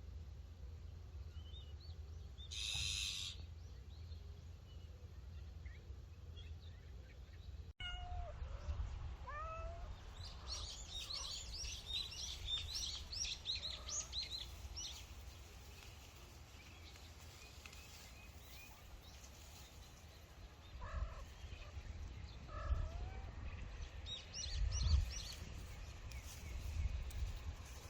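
A cat meowing in several short calls, the first cluster about 8 to 9 seconds in and more from about 21 seconds. High bird chirps come in between, over a steady low wind rumble.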